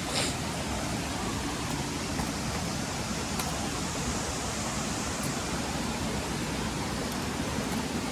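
A steady rush of running water, with a brief click just after the start.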